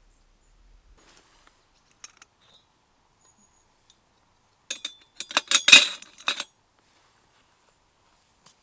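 Small hard objects being handled: a quick run of sharp clinks and knocks about five to six and a half seconds in, with a few faint ticks before and one near the end.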